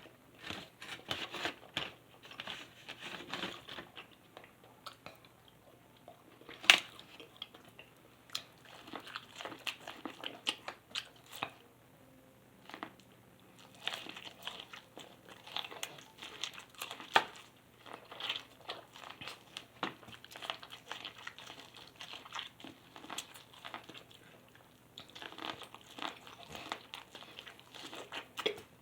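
A person chewing and biting food close to the microphone: wet mouth clicks and crunches come in bursts with short pauses, and two sharp, loud clicks are heard about 7 and 17 seconds in.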